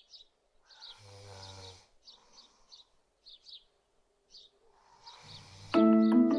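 Small birds chirping in short, high, repeated notes, with a brief low hum about a second in. Near the end, music with marimba-like mallet notes begins.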